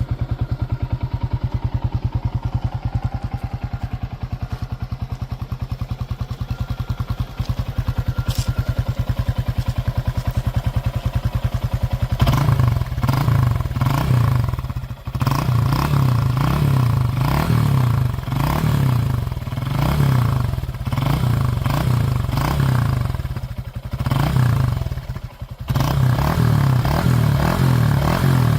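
Honda Monkey 125's single-cylinder four-stroke engine running through a TYGA aftermarket exhaust: it idles with an even, rapid beat, then about twelve seconds in it is revved repeatedly in short throttle blips.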